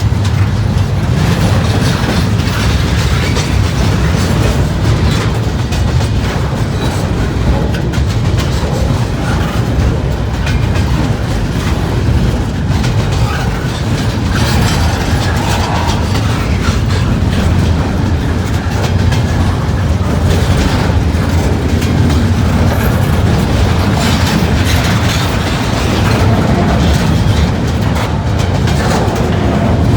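Long freight train rolling past close by, a steady rumble of its cars with wheels clacking over the rail joints.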